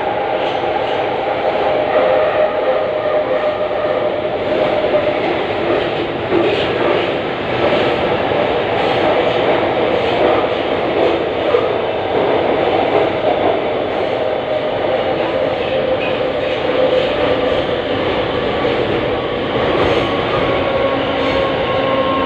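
A Budapest Metro Line M2 train running through the tunnel, heard from inside the car: a steady rumble of wheels and rails with a few humming motor tones over it.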